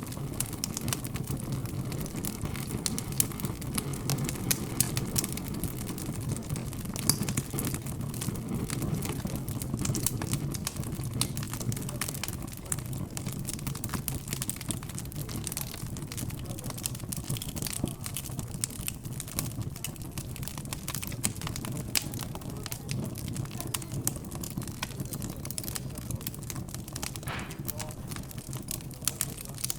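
Fireplace fire crackling, with many irregular sharp pops and snaps, over a low, steady hum of background chatter.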